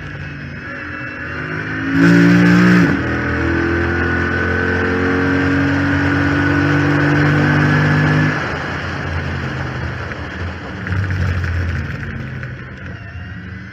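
Chrysler 300 SRT8's 6.4-litre HEMI V8 under hard acceleration on track, heard from the hood scoop: the revs jump loud about two seconds in and fall sharply at an upshift, then climb steadily for about five seconds before the throttle lifts off, with a short burst of throttle near the end. The power steering pump has failed, which the owner credits for the car sounding like a Hellcat.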